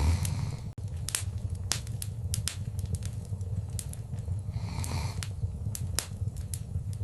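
Wood fire in a fireplace crackling, with frequent sharp pops and snaps over a low steady rumble of the flames, and a soft rush of flame swelling briefly about five seconds in.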